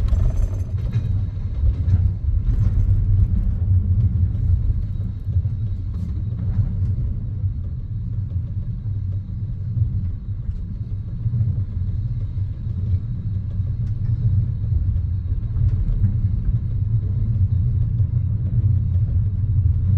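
Steady low rumble of a moving passenger train, heard from inside the carriage, with a few faint ticks over it.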